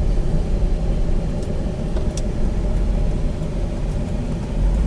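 Steady low rumble of a car's engine and tyres heard from inside the cabin while driving, with a couple of faint ticks.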